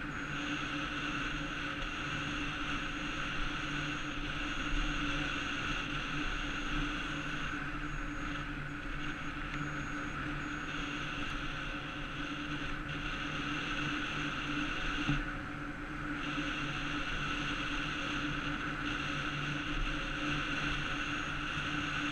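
48-volt electric bike under way: a steady hum from the electric motor mixed with tyre and wind noise, muffled by the camera's waterproof housing.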